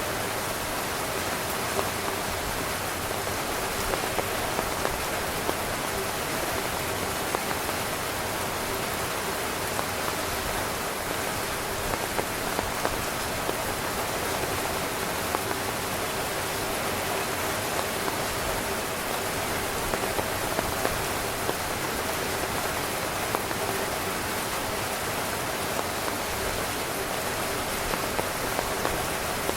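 Steady rain falling on a tent, an even hiss with scattered louder individual drops striking the fabric.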